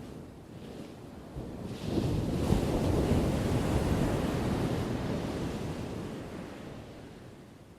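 An ocean wave breaking and washing in: a surge of surf noise that builds about two seconds in, holds for a couple of seconds, then slowly fades away.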